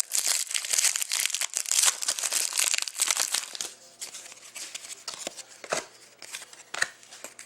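Hockey card pack wrapper being torn open and crinkled. The crinkling is dense for the first three and a half seconds, then thins to fainter rustles and clicks as the cards are handled.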